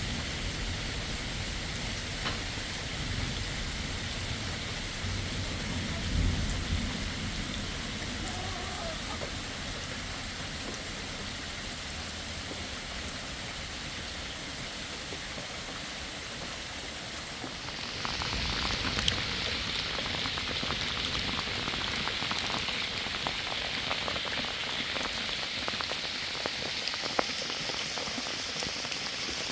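Heavy rain falling steadily, with a brief low rumble about six seconds in. About eighteen seconds in the rain turns louder and hissier, with many sharp drop ticks, as of rain striking a surface close by.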